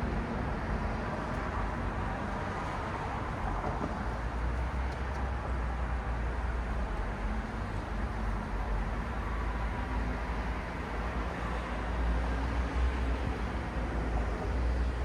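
City road traffic: a steady wash of tyre and engine noise from passing cars and other vehicles, with a heavy low rumble and a faint engine hum that comes and goes.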